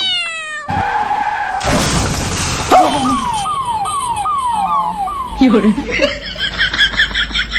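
Comedy sound effects for a sudden scooter swerve: a skid-like hiss, then a siren-like wail falling over and over, about two times a second, and quick high chattering near the end.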